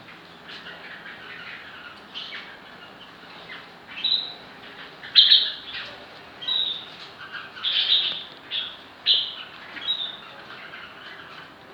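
Birds calling: a steady run of short, high chirps and squawks, thickest and loudest in the middle stretch.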